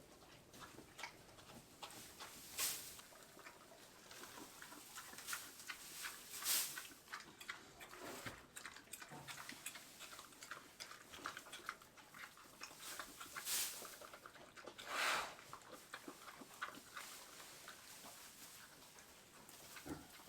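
Juliana mini pigs eating feed and apples: continual small crunching and chewing sounds, with a few louder short breathy noises from the pigs about four times.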